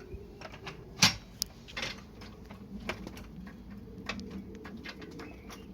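Scattered clicks and clanks of metal tools and motorcycle parts being handled, with one sharp knock about a second in that is the loudest.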